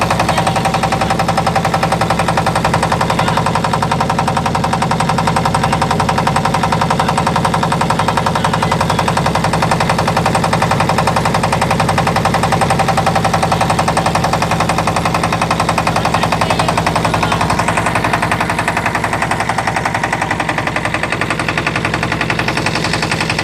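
Boat engine running steadily with a fast, even chugging knock, getting a little quieter over the last few seconds.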